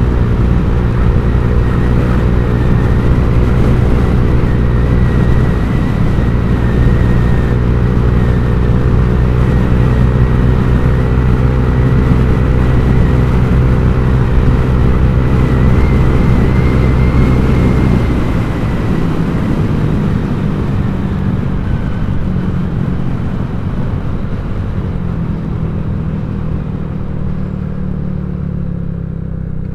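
Honda Vario 150 scooter's single-cylinder engine breathing through a ZRC copy-CMS aftermarket exhaust, running at a steady pace under way. About 18 seconds in the engine eases off, and it runs lower and quieter after that.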